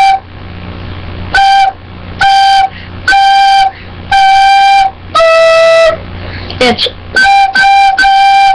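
Recorder playing a simple tune in clear separate notes, mostly on one repeated pitch, with one lower note held longer about five seconds in and three quick short notes near the end.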